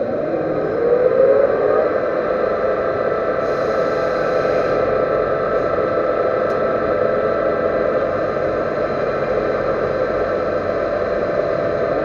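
Metal lathe spinning up, its pitch rising over the first two seconds or so, then running steadily with a constant hum.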